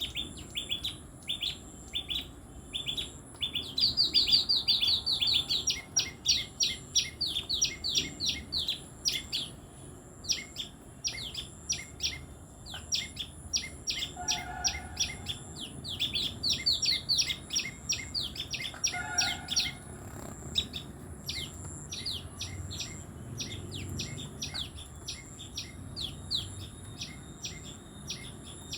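Tailorbirds calling: rapid trains of short, sharp, high chirps, several a second, loudest about four to nine seconds in, over a faint steady high hum.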